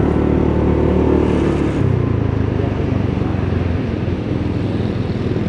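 Road vehicle engine running while on the move, a steady low rumble with road and wind noise.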